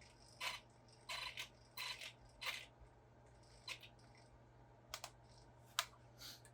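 Handling noise: about ten short, sharp plastic clicks and clacks at irregular spacing, some in quick pairs, over a faint steady hum.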